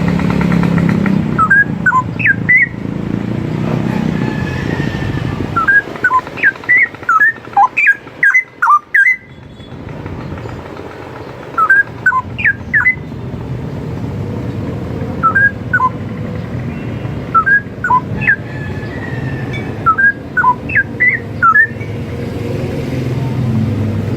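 Straw-headed bulbul (cucak rowo) singing: short phrases of loud, clear whistled notes that jump up and down in pitch, repeated every two to three seconds, over a steady low rumble.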